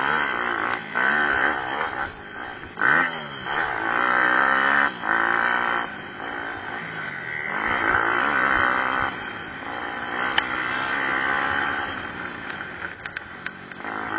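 Pit bike engines revving on track, several at once, their pitch climbing and falling again and again with throttle and gear changes, with short drops in loudness between pulls.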